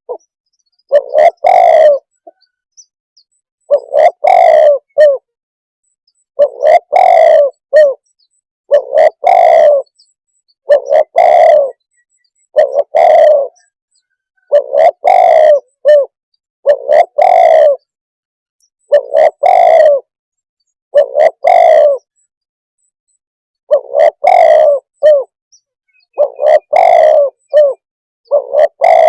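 Spotted dove cooing over and over, a bout of several notes about every two seconds, very loud.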